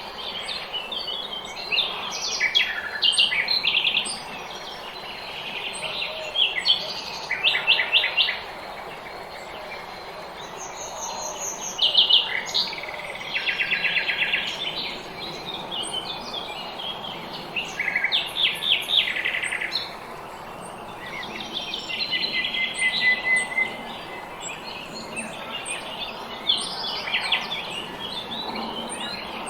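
Several small songbirds singing in overlapping chirps and rapid trills, over a steady outdoor background hiss.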